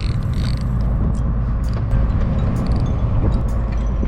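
Fishing boat's motor running steadily with a low rumble, with scattered light clicks and knocks of tackle being handled.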